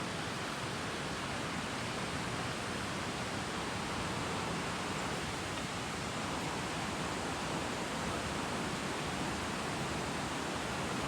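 Steady rushing of creek water over rocks, an even noise that does not change.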